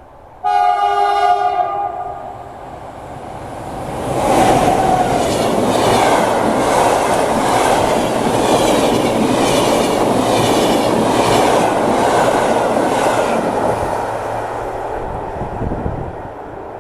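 Passenger train sounding a short horn blast, then passing at speed with a loud rush and a steady clickety-clack of its wheels over the rail joints, fading near the end.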